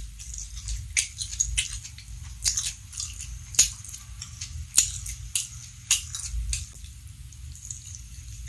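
Close-miked chewing and biting of a sauced chicken drumstick with rice, eaten by hand: sharp wet mouth clicks every half second to a second.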